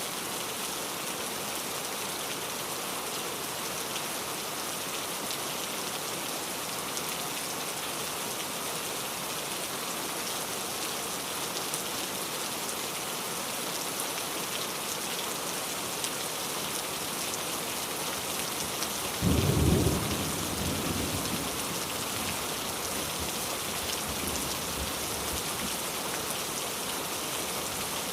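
Steady rain falling, with a single sharp clap of thunder about two-thirds of the way through that rumbles away over a few seconds.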